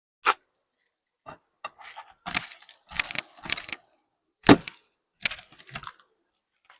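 Beehive equipment being handled: a series of sharp knocks and short scraping clatters, the loudest a single knock about two-thirds of the way through.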